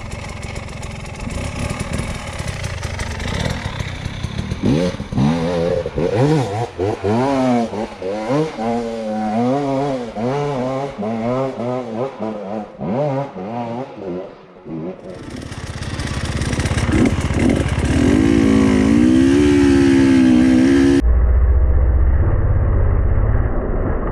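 Enduro motorcycle engine revving up and down over and over under throttle, its pitch rising and falling every second or so. About three-quarters of the way through, the sound changes abruptly to a muffled low rumble.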